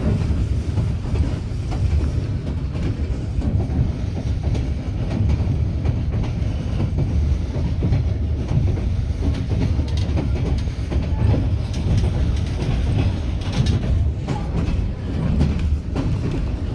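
White Pass & Yukon Route narrow-gauge passenger train running along the track, heard from aboard: a steady low rumble with the clickety-clack of wheels over the rails.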